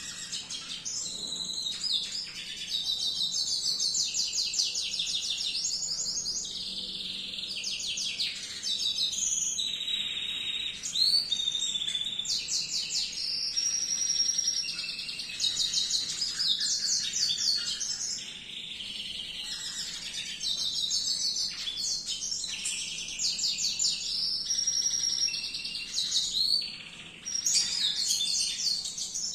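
Domestic canary singing almost without a break, in long runs of rapid trills and rolls mixed with clear held whistles, pausing briefly twice.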